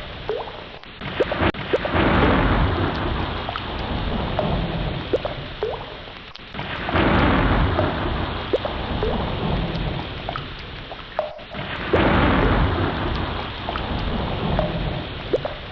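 Ocean waves washing in, each surge swelling and fading about every five seconds, with short faint chirps scattered over the surf.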